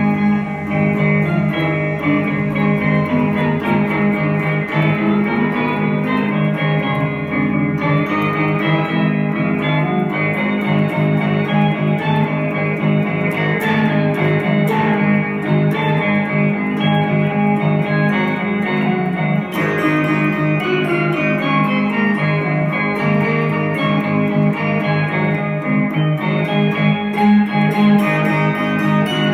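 Electric guitar played through an Ammoon Octa octave pedal, in a slow ambient soundscape style, jammed along to a backing track with a steady low drone underneath.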